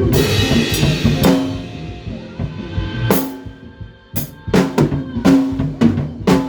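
Band rehearsing, led by a drum kit: a cymbal crash with a long shimmer at the start, a quieter gap a few seconds in, then kick and snare strokes come back in, with held low bass notes underneath.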